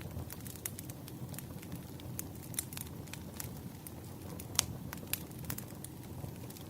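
Wood fire crackling: irregular sharp snaps and pops over a low, steady rumble of burning logs, with one louder pop a little past the middle.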